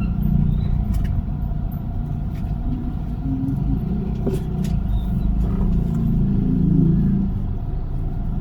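Toyota Avanza driving along a road, its engine and tyre noise making a steady low rumble.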